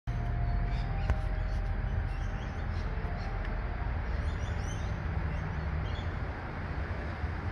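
Birds calling in the background, a few short chirps about four to five seconds in, over a steady low rumble of outdoor ambience.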